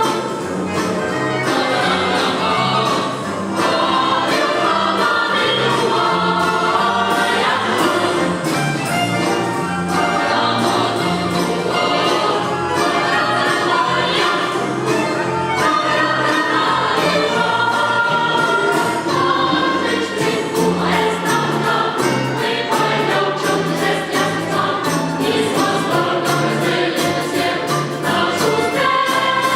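Boys' and young men's choir singing together with an orchestra of Russian folk instruments, over a percussive beat.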